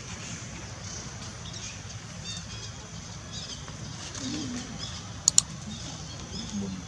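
Outdoor background with faint, scattered high chirping calls over a steady low rumble, and two sharp clicks in quick succession about five seconds in.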